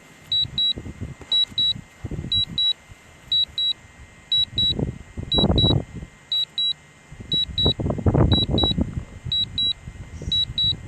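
Drone remote controller giving high-pitched double beeps, about one pair a second: the repeating alert of a drone flying its return-to-home. Irregular low rumbles of wind on the microphone sound underneath.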